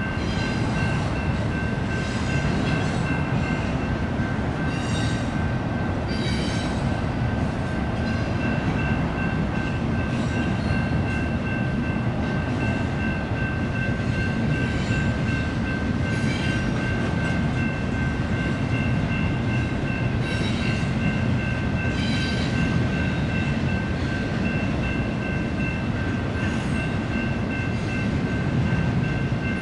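Intermodal freight train rolling past: a steady, heavy rumble of cars on the rails with irregular clicks and rattles from the wheels. A thin, steady high tone runs over it.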